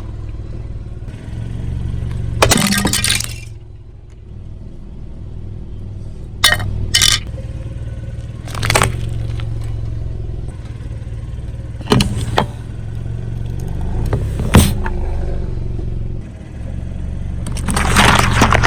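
Car running at low speed while its tyres crush objects, with about half a dozen short sharp cracks and pops spread through it over a steady engine hum.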